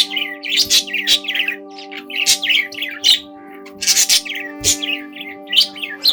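Young budgerigars chirping and chattering in quick, overlapping calls, with a steady low hum of several tones underneath.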